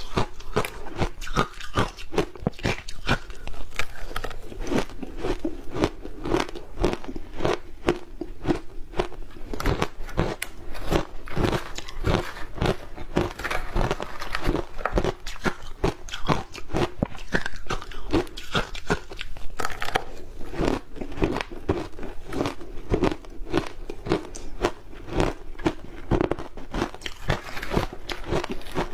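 Ice with matcha green tea powder being bitten and chewed up close: a steady stream of crisp, rapid crunches.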